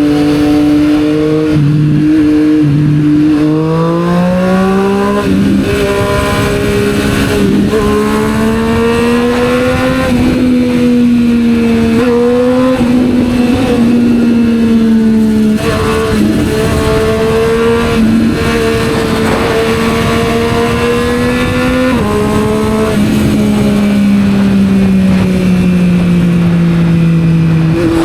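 A 765R motorcycle's engine running through a Yoshimura aftermarket exhaust while riding in traffic. The engine pulls up in pitch in a few steps during the first several seconds, as if shifting up through the gears. It then holds a fairly steady pitch with small rises and dips, falls off as the throttle eases near the end, and picks up again at the very end.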